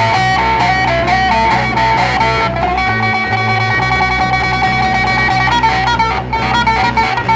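Instrumental rock passage with no singing: an electric guitar holds long notes, some bent in pitch, over a steady bass line.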